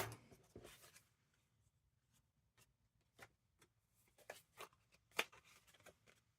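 Faint, scattered taps and rustles of paper and card being handled and lined up, with the sharpest tap about five seconds in.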